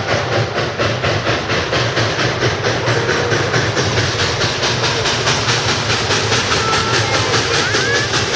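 Southern Pacific 2472 steam train running loud, with a fast, even beat of about four strokes a second.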